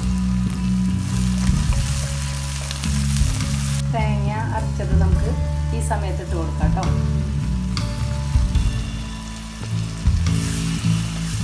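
Chopped onion and tomato sizzling in coconut oil in a wok, with a steady hiss and occasional clicks from stirring. Near the end a wooden spatula scrapes a thick coconut paste into the pan. Background music plays underneath.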